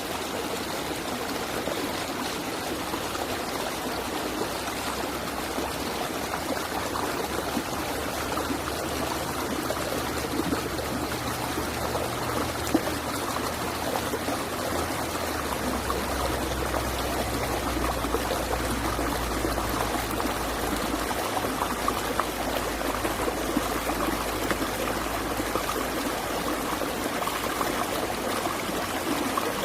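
Steady rushing and splashing of a stream's flowing water, even and continuous. A faint low rumble sits beneath it from about ten seconds in until near the end.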